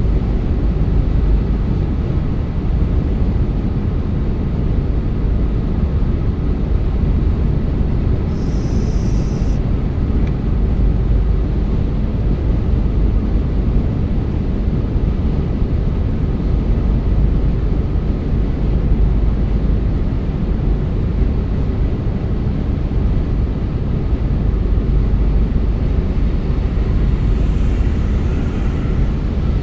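A car driving along a road: steady low rumble of tyres and engine, with a brief faint hiss about nine seconds in.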